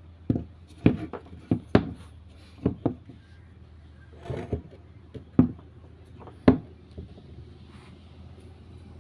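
Irregular knocks and clunks, about ten in all, from objects being handled and set down in a woodworking setting, over a faint steady hum. The trimmer's motor is not running.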